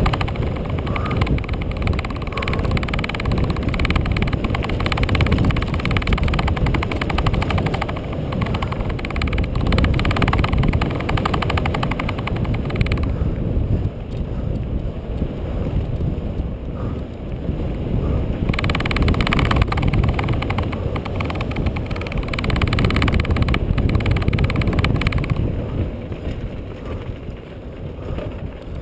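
Wind rushing and buffeting over an action camera's microphone during a fast downhill run, with constant rattling and clatter from the ride over rough ground. It eases off briefly twice.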